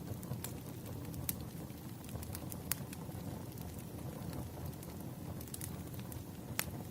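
Campfire burning: a steady low rush of flames with sharp crackles and pops from the wood, a few of them louder than the rest.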